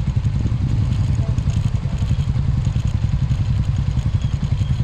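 Yamaha NMAX scooter riding along at steady speed, the engine and road noise mixed with heavy wind buffeting on the microphone.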